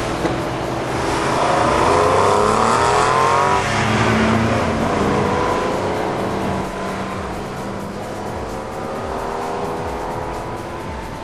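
Porsche 993 911's air-cooled flat-six accelerating hard from a standstill, revving up through one gear, shifting about three and a half seconds in, then pulling up through the next gear as it drives away.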